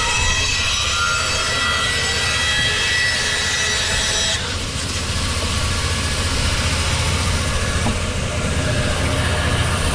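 Sawmill circular saw cutting through a log over the low rumble of the mill's machinery, with a steady high whine. A little over four seconds in, the whine stops while the machinery keeps running.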